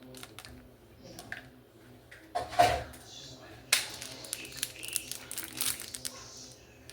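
Kitchen handling noises of dishes being loaded into a dishwasher: scattered clicks and knocks, a louder clatter about two and a half seconds in, then a busy run of sharp clicks and rattles past the middle.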